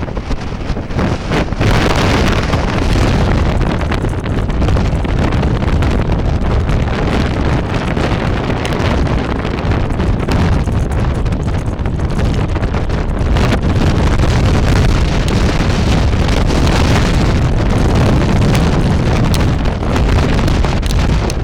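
Sandstorm wind buffeting the microphone: a loud, steady rush that is heaviest in the low end. Gusts swell about two seconds in and again near the end.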